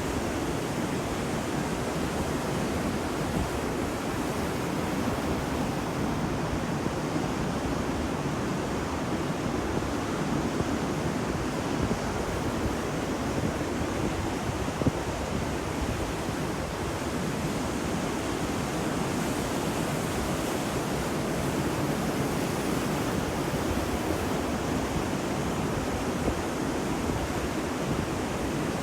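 Ocean waves washing onto a beach in a steady wash of surf, with no single break standing out.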